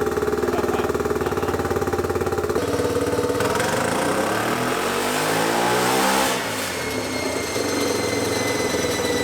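Turbocharged single-cylinder Yamaha Raptor 660 engine running on a chassis dyno: steady at first, then revving up in a rising pull from about three seconds in to just after six seconds, where it drops off and settles. With the injector plugged back in it runs far too rich, around 9.5 to 1 air-fuel.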